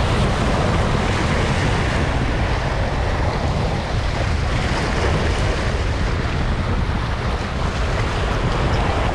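Strong wind buffeting the microphone in a steady, heavy rumble, with waves washing on the shore underneath.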